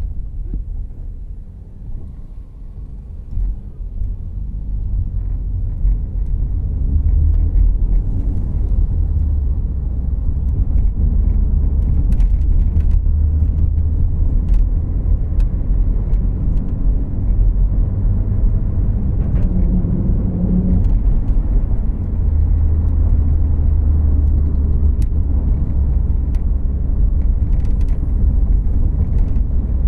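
Inside the cabin of a Volkswagen Jetta Clásico on the move: a steady low rumble of engine and road noise. It is softer for the first few seconds, grows louder from about four to six seconds in, then holds, with a few faint clicks over it.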